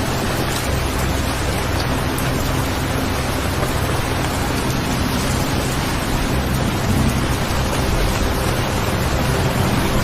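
Steady rain recording, an even hiss with a low rumble underneath.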